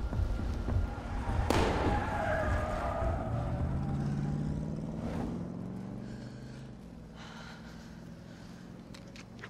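A sharp bang about one and a half seconds in, then a car engine pulling away, its note rising slowly and fading out.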